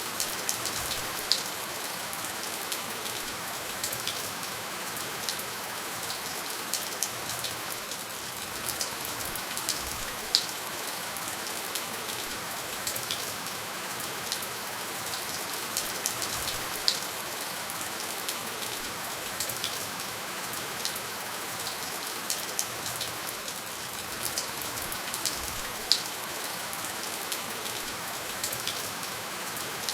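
Steady gentle rainfall with no thunder: an even hiss of rain on a surface, with scattered sharper drops ticking through it, a few of them louder.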